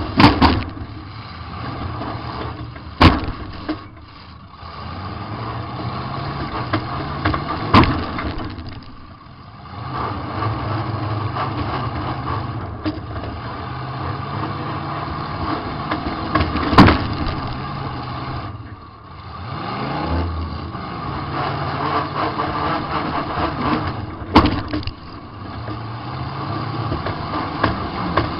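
Demolition derby car's engine revving hard, backing off and climbing again over and over, heard from inside the car. About five sharp, loud crashes of car-on-car impacts break through it.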